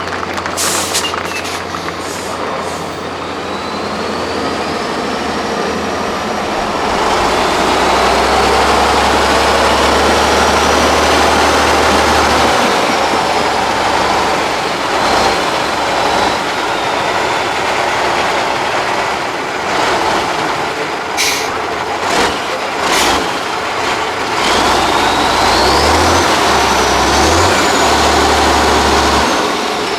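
Tatra 8x8 off-road truck's diesel engine working hard under load. It swells twice, stepping up and down the second time, with a high whine that rises and falls. A few short sharp hisses or clacks come about two-thirds of the way in.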